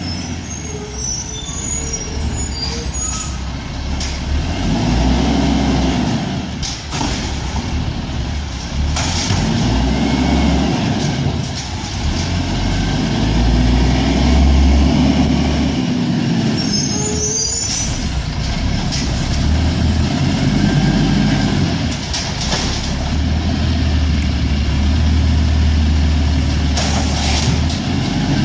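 Garbage truck's diesel or gas engine running, its pitch rising and falling again every few seconds, with several short hisses of air.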